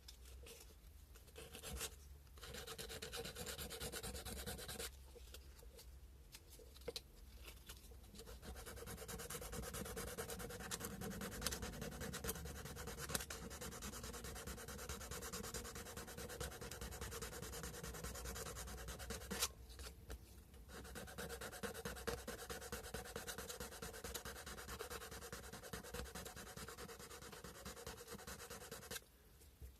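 Sandpaper rubbed by hand over a carved cow-bone fish hook in quick, steady strokes, stopping briefly a few times.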